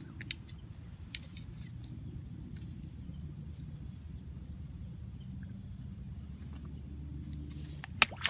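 Field ambience: a thin, steady high insect trill over a low rumble, with a few faint clicks and knocks.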